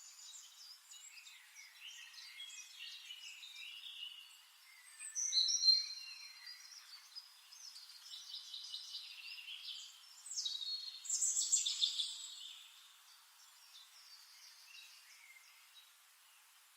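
Birds chirping and singing, with short trills and quick gliding notes; the song swells loudest about five seconds in and again about eleven seconds in.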